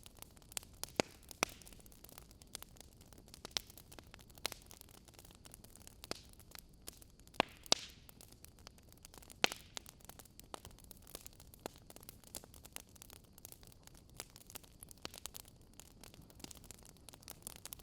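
Burning wood logs crackling: irregular sharp pops and snaps, a few much louder than the rest, over a faint steady hiss.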